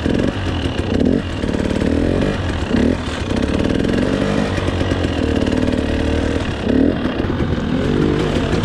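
Two-stroke dirt bike engine revving up and down again and again as the rider works the throttle through rough trail.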